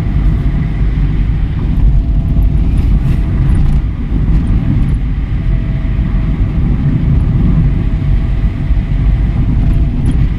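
Car driving: a steady low rumble of engine and road noise, with a faint whine over it.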